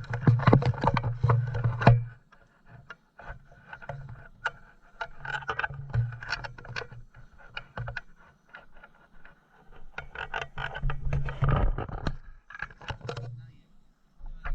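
Indistinct voices of people talking, coming and going in stretches, with scattered clicks and handling noise.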